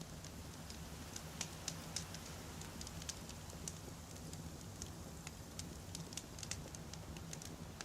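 Wood campfire burning, with frequent irregular sharp crackles and pops from the burning logs over a low steady rumble.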